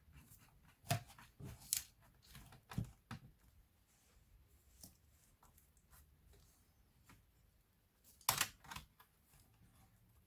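Sharp clicks and taps of small laptop parts being handled: a run of them in the first three seconds, then a louder cluster about eight seconds in.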